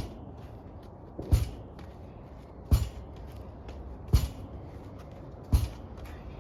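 Lacrosse ball thrown against a wall and caught in a stick's pocket, in a steady rhythm of sharp knocks about every second and a half, each a quick double hit.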